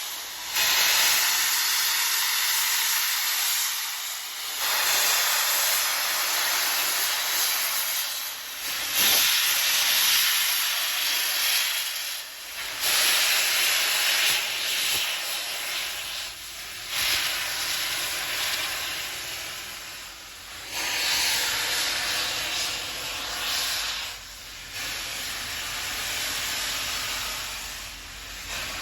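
Union Pacific Big Boy steam locomotive pulling away, letting off long hissing blasts of steam about every four seconds. A low rumble of the rolling train builds beneath them in the second half.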